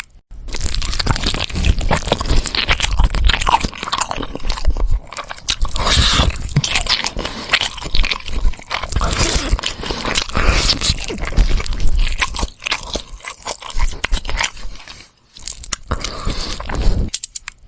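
Close-up chewing, with repeated loud crunching and cracking as bones are bitten, and a short pause about fifteen seconds in.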